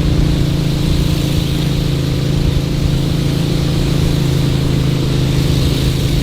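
Boat engine running steadily under way, an even, unchanging engine tone.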